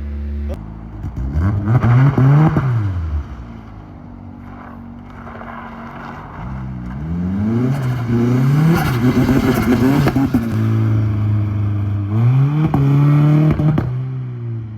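Turbocharged Honda S2000 four-cylinder engine revved three times while the car stands still, each time rising and then dropping back toward idle, with crackling from the exhaust during the higher revs.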